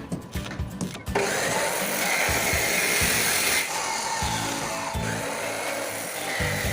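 A power tool working the steel railing starts about a second in and runs steadily with a whine, over background music with a steady beat.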